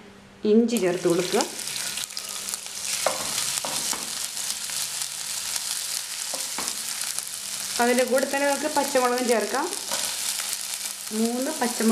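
Chopped ginger and green chillies sizzling in hot oil in a nonstick pan, stirred with a wooden spatula that scrapes and clicks against the pan. The sizzle starts about half a second in.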